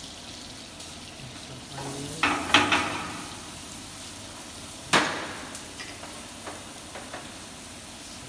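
Chopped onion sizzling in oil in a frying pan over a gas burner, a steady hiss throughout. A few sharp clacks of kitchen utensils come about two seconds in, and a single louder knock at about five seconds.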